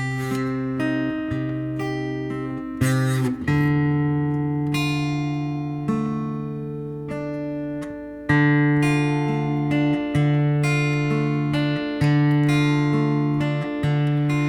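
Acoustic guitar playing alone: chords plucked and left to ring, each fading before the next is struck, a change every few seconds.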